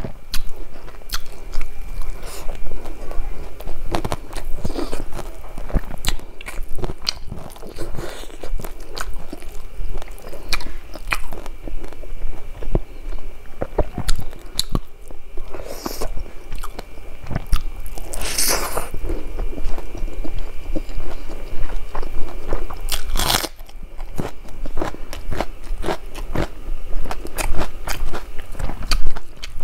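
Close-miked eating by hand: chewing and crunching a mouthful of rice with fish curry and stink beans, with many quick wet mouth clicks and smacks, and two louder bursts past the middle.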